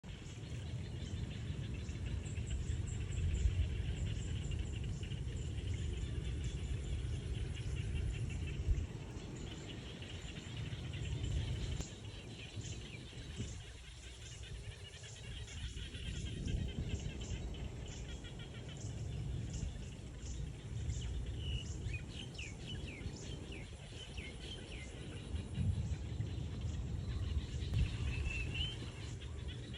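Small birds chirping and twittering in short bursts, with fast high ticking notes repeating, over a steady low rumble.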